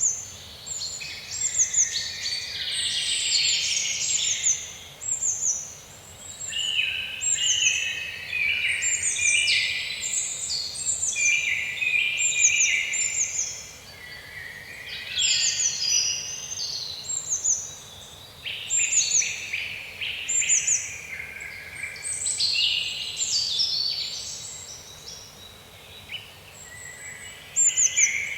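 Several songbirds singing together in woodland. One repeats short, high notes that fall in pitch, about once a second, over another bird's busier, more varied song lower down.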